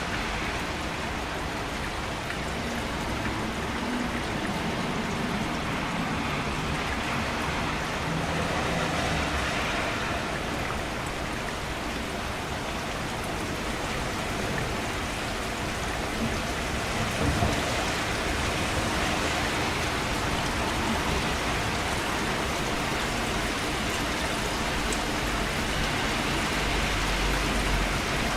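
Steady rain falling, an even hiss of many drops that keeps on without a break.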